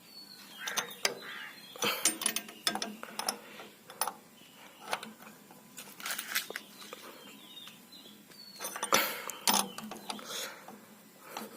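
Irregular metal clinks and clicks of an 18 mm spanner working a nut on a tractor's diesel fuel pump.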